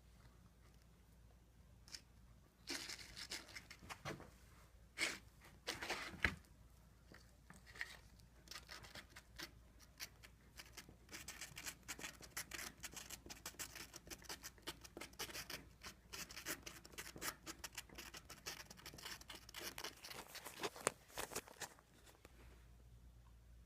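Quick, irregular scraping and snipping strokes of hand work on a fiberglass bumper repair. They start a few seconds in, come thick and fast, and stop shortly before the end.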